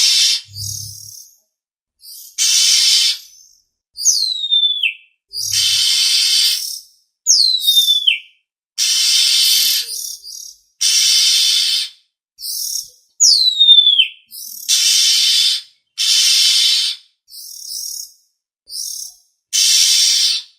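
Oriental magpie-robin (kacer) calls used as a lure: harsh, rasping calls about a second long, repeated roughly every two seconds with clean gaps between them. Three times a clear whistle falls steeply in pitch between the harsh calls.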